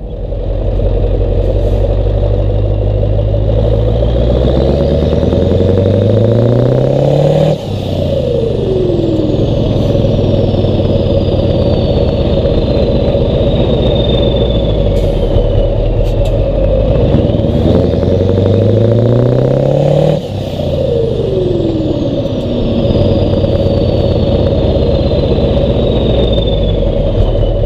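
Scania 143's V8 diesel with a loud exhaust, revved up hard twice: the engine note climbs over several seconds, then drops sharply as the throttle is released, about seven seconds in and again near twenty seconds. After each release a high turbo whistle winds slowly down.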